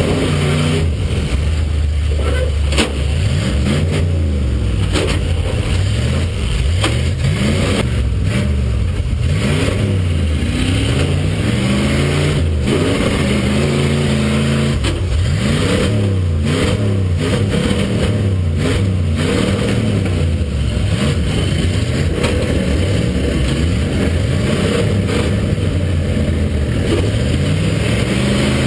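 Demolition derby trucks' engines revving up and down over and over, several at once, with scattered sharp bangs of collisions.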